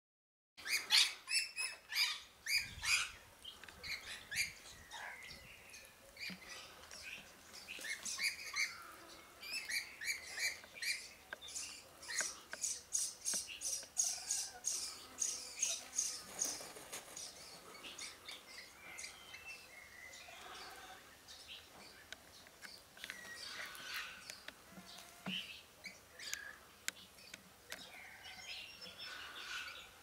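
Wild birds chirping and calling, a busy run of short repeated calls over the first half that thins out toward the end.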